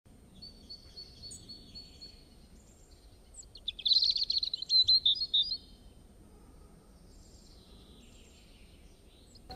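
Small birds chirping outdoors: a string of quick repeated high notes in the first two seconds, then a loud burst of rapid twittering about four seconds in, and fainter scattered calls after it, over a low steady background noise.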